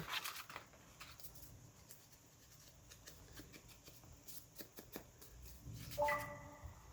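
Paper being handled: soft rustling with scattered small taps and clicks. A brief voiced hum comes near the end.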